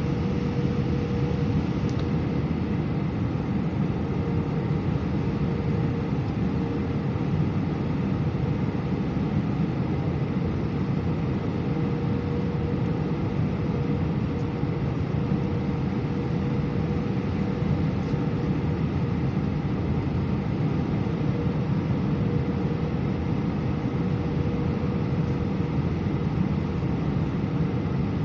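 Steady cabin noise inside an Airbus A319 airliner: an even rumble of engines and airflow with a faint steady hum above it.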